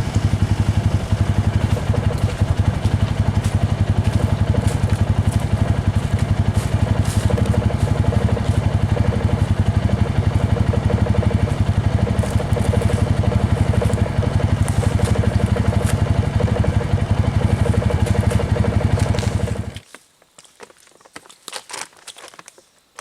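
Small vehicle engine running steadily with an even rapid pulse, then shut off abruptly near the end, followed by a few faint knocks.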